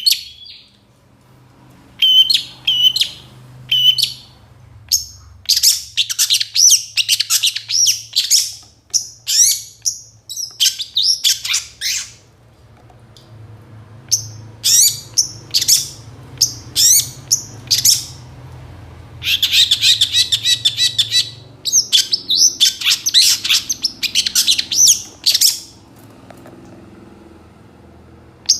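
Long-tailed shrike singing a fast, loud song of rapid high chirps and trills in bursts of a few seconds with short pauses between, full of phrases copied from other birds. A faint steady low hum runs underneath.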